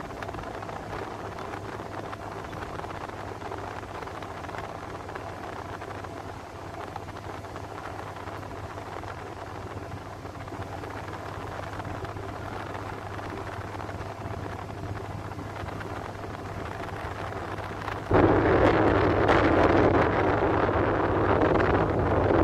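Ship's engines running with a steady low hum under wind noise on the microphone. Near the end it jumps suddenly louder into strong wind buffeting the microphone.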